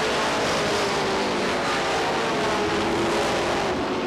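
Pack of late model stock cars racing past on a short oval, several engines running at once in a steady, dense drone.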